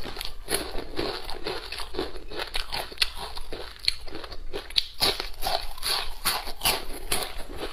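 Close-miked mouth sounds of a person biting and chewing crispy fried fish: irregular wet crunches and clicks several times a second.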